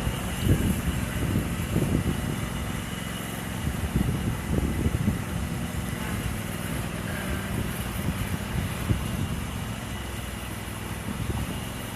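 Riding lawn mower's engine running steadily, with irregular low rumbling pulses over it.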